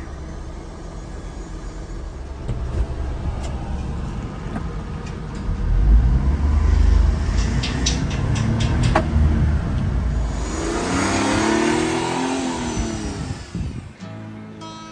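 Honda Acty kei truck's small engine running, its note building and then revving up and falling back near the end, with a few light clicks midway; the engine sound cuts off shortly before the end.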